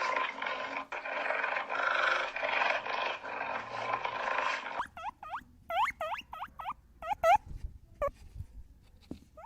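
Animal calls: a dense, noisy stretch of sound, then about five seconds in a quick run of short pitched calls that each rise and fall.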